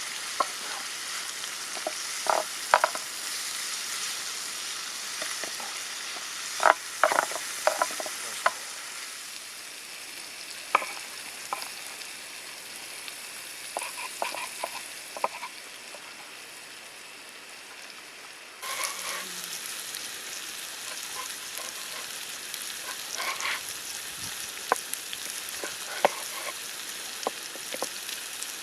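Vegetables frying in butter in a pan over embers: a steady sizzle with scattered clicks and taps. About two-thirds of the way through, the sizzle suddenly gets louder.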